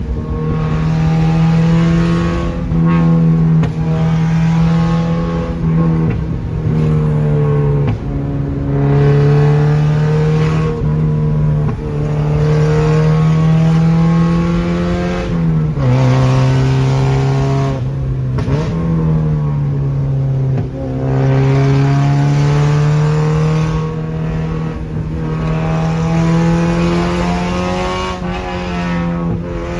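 Mazda NC Miata four-cylinder engine through a nearly straight-piped exhaust (stock header and cat, resonator-deleted mid pipe, muffler delete), running loud at steadily held revs. The pitch drops sharply about halfway through, then slowly climbs again, with a few brief dips along the way.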